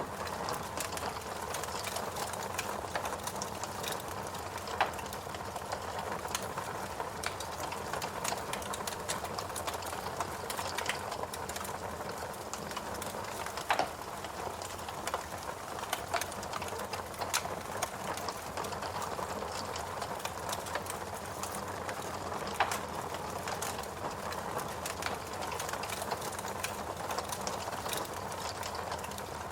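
Fireplace crackling: irregular pops and snaps over a steady hiss.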